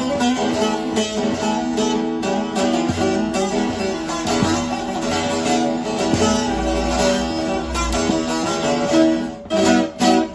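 Long-neck bağlama (saz) with a carved mulberry bowl and spruce top being played: a fast plucked melody of many quick notes, which thins out near the end into a few last strokes.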